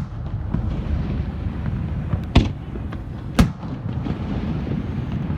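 Fireworks display: two sharp shell bursts about a second apart, a little over two seconds in, over a steady low rumble of other distant bursts and crowd noise.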